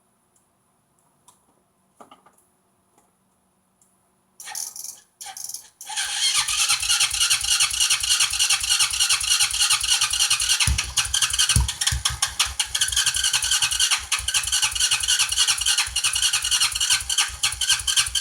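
Four-wheeler's engine being cranked on its electric starter: two short tries, then about fourteen seconds of continuous cranking with a steady rapid pulse and a couple of heavier thumps past halfway, without catching. The owner takes it for a flooded engine, fed watered-down gas a few weeks earlier.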